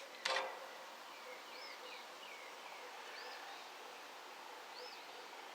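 Faint outdoor ambience with a songbird repeating a short, high, arched chirping phrase about every second and a half. A brief louder noise comes just after the start.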